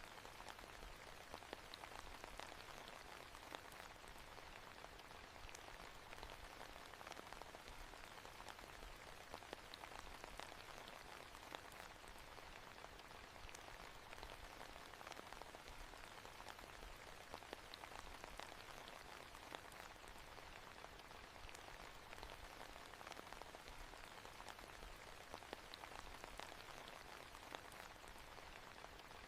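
Faint, steady rain falling on a surface, with many small, separate drop ticks.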